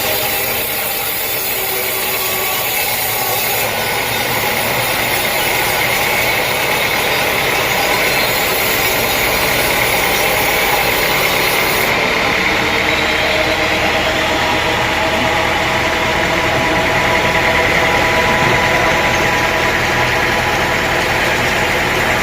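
Sawmill machinery running steadily: an engine hum under the hiss of the saw. The high hiss changes about 4 s in and falls away about 12 s in.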